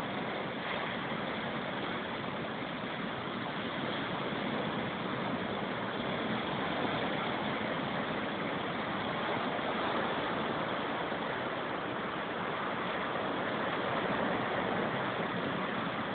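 Typhoon wind and surf: a steady rushing noise with no breaks, swelling slightly now and then.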